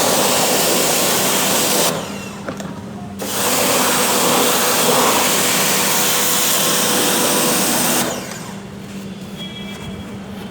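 High-pressure water jet spraying a window air conditioner, a steady rush that stops for about a second near the two-second mark and again about eight seconds in, while the pump motor's hum carries on underneath.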